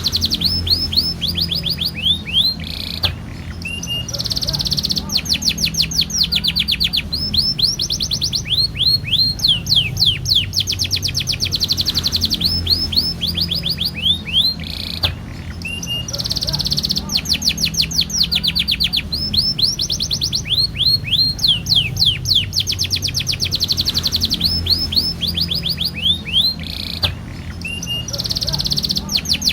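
Domestic canary singing a long, continuous song of rolling trills: runs of fast, evenly repeated falling notes, broken every few seconds by short buzzy rolls, with a steady low hum underneath.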